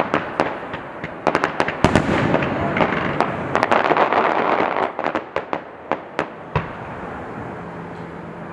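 Aerial fireworks bursting: rapid cracks and bangs over a dense crackle that builds about two seconds in, then thins to scattered pops near the end.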